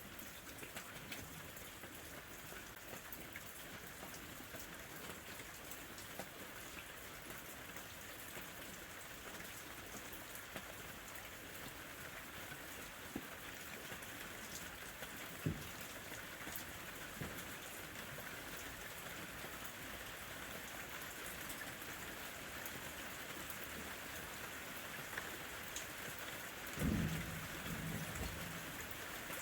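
Steady summer rain falling, with scattered drops ticking. There is one sharp tick about halfway through and a brief low rumble near the end.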